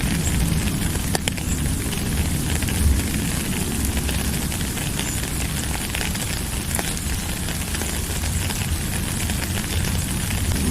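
Steady rain falling: an even hiss dense with the patter of individual drops, over a deep rumble.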